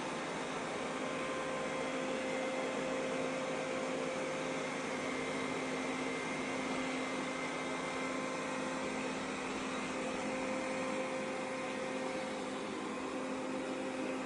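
Lenovo robot vacuum cleaner running: a steady whirring motor noise with a constant hum.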